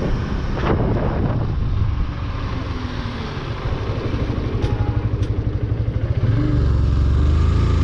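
Motorcycle engine running while riding, with a short knock under a second in. The engine note pulses at low revs in the middle, then steadies and gets louder about six seconds in.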